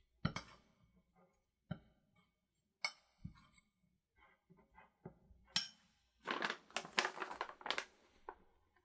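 Kitchen utensils and dishes being handled: a few separate knocks and clinks, then about two seconds of busy scraping and rustling near the end.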